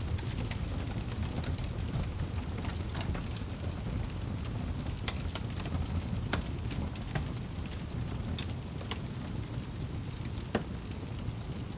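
Wood fire burning with a steady low rumble and irregular sharp crackles and pops of the firewood, one louder pop near the end.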